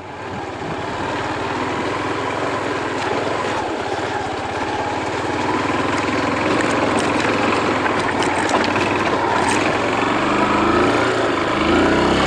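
250cc motorcycle engine running, fading in at the start; near the end its pitch climbs as it is revved.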